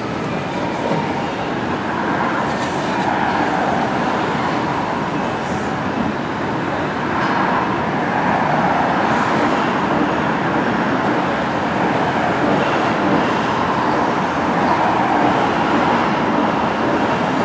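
Train rolling along the track: a steady rumble of wheels on rails.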